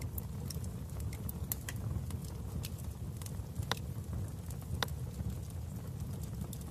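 Wood fire crackling in a fireplace: irregular sharp pops and snaps over a steady low rumble, with two louder pops near the middle.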